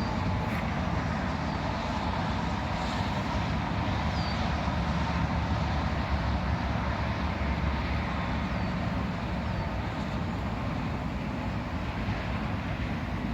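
Steady outdoor background noise with a strong, churning low rumble.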